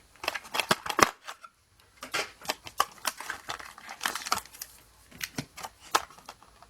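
Plastic blister-pack packaging being handled: a run of irregular sharp clicks and crackles.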